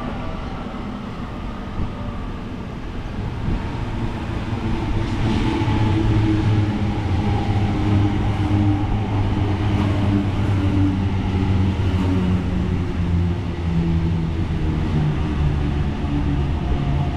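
Sydney Waratah electric suburban train pulling into the platform: its traction motors hum and whine in several steady tones that shift in pitch, growing louder about four seconds in, over the rumble of the train on the rails.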